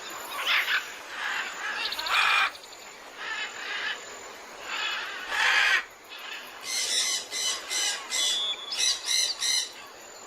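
Birds calling: scattered squawks and chirps, two of them louder, then a quick run of short repeated notes, about three a second, in the second half.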